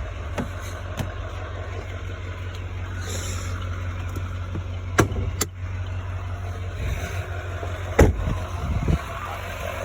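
A truck hood being released and opened: a series of sharp clicks and clunks from the hood latch and hood, the loudest near the end, over a steady low rumble.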